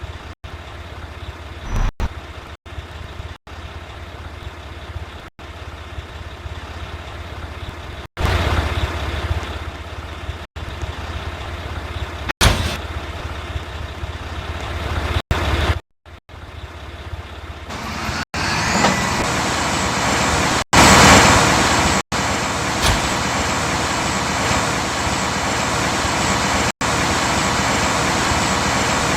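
Mack rear-loader garbage truck's diesel engine running, with louder swells of noise now and then and a marked rise in loudness about two-thirds of the way in.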